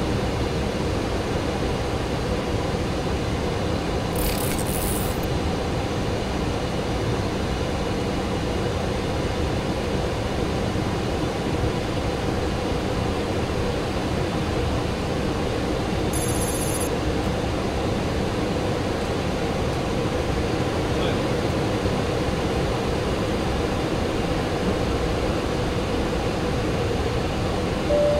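Steady flight-deck noise of a Boeing 737-800 in flight on approach: a constant rush of airflow with a faint steady hum. Two brief high-pitched blips come about four seconds and about sixteen seconds in.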